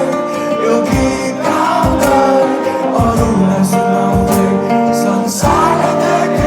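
A band playing a song live: singing over guitar, with a steady beat about once a second.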